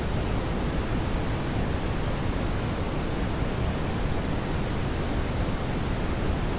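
Steady brown noise: an even, unchanging rumbling hiss, heaviest in the low end.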